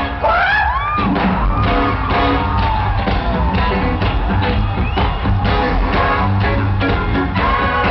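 Live funk band music with a heavy bass beat, recorded from the crowd on a camcorder with poor, muddy sound. High shouted whoops glide up and down about a second in.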